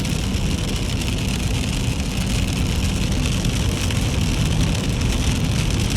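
Steady low rumble and even hiss of a car driving through rain, its tyres and engine running over a wet road.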